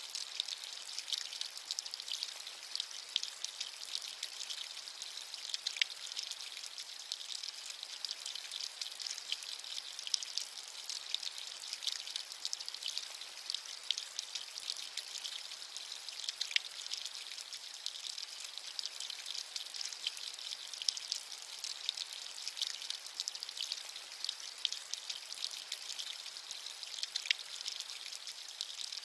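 Steady rainfall, a dense high hiss of many small raindrops pattering on a surface.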